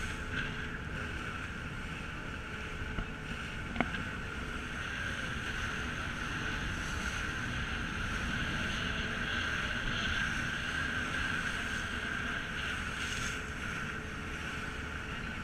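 Steady running noise of a passenger ferry underway, engine drone and water rushing along the hull, with wind buffeting the microphone. A single sharp click about four seconds in.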